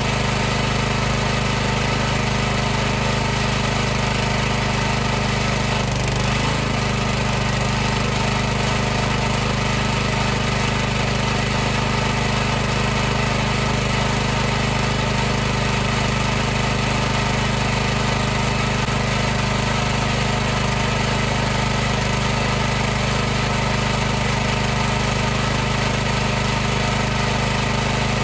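High-pressure washer's motor and pump running steadily, a constant hum at one even pitch with a hiss of noise over it.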